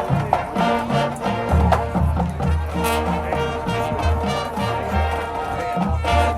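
Marching band playing: brass chords over a moving low brass line, with drum hits.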